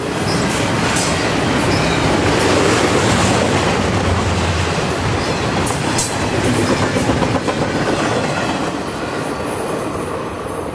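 Double-stack intermodal freight train's container well cars rolling past, the wheels clicking over rail joints. The noise drops off over the last couple of seconds as the last car goes by.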